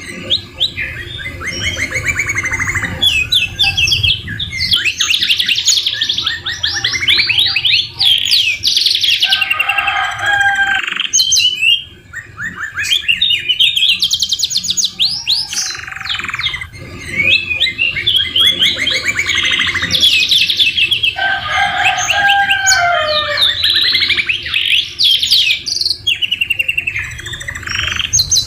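Domestic canary singing: long runs of fast rolling trills and repeated chirps, with phrases borrowed from the oriental magpie-robin (murai batu), broken by a couple of brief pauses.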